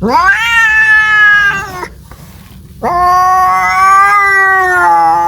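Domestic cat yowling in two long drawn-out calls. The first swoops up in pitch at its start and holds for under two seconds; the second begins about three seconds in and is still going at the end.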